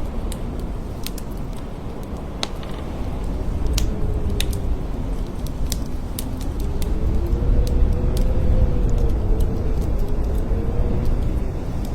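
Blizzard wind blowing hard, a deep steady rumble that swells and eases, with a wavering howl that rises and falls in pitch. Scattered sharp ticks sound over it.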